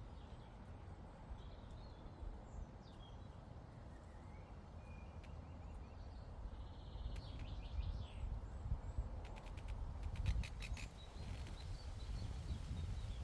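Birds calling and chirping over a steady low rumble of wind, with a quick run of sharp clicks about two-thirds of the way through.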